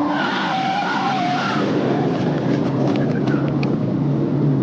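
Steady road and engine noise of a car in traffic, as picked up by a dashcam, with a few short ticks in the second half.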